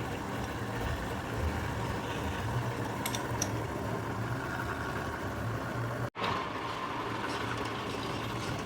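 Steady mechanical hum of a running machine, with a few faint clicks about three seconds in. The sound cuts out abruptly for a split second just after six seconds, then the same hum carries on.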